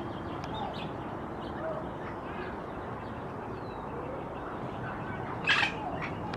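Bird calling: a few faint short calls over a steady noisy background, then one loud, harsh call about five and a half seconds in.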